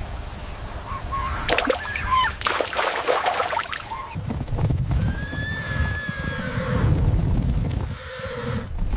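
Wild animal calls over a low rumble, with a burst of calls in the first half and a thin, high whistled note around the middle.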